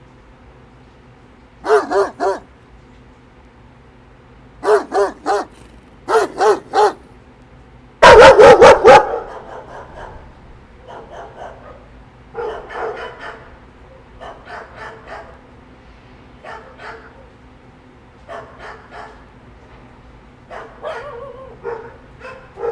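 A dog barking in short bursts of two or three barks, then a very loud run of several barks about eight seconds in. After that the barking goes on softer, in quicker small groups.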